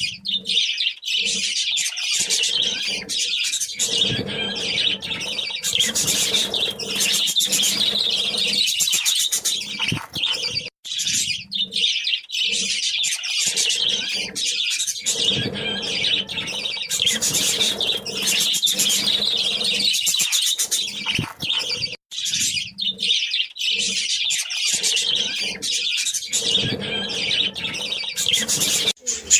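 A group of budgerigars chattering and chirping continuously, a dense run of quick high warbles with only brief pauses.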